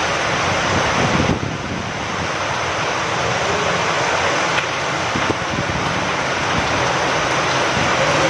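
Steady heavy rain with wind, a dense even hiss that eases briefly about a second in before building back up.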